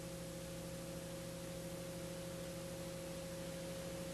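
Faint, steady hum made of a few unchanging tones over a light hiss, with no rise in pitch.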